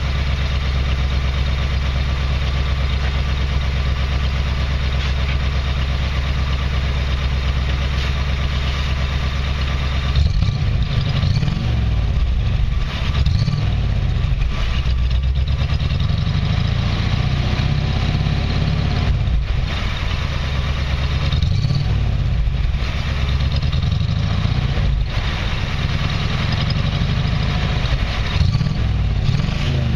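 1979 Jeep CJ5's AMC 304 V8 running through aftermarket dual exhaust, warmed up and off the choke. It idles steadily for about ten seconds, then the note wavers with several brief rises and falls in pitch.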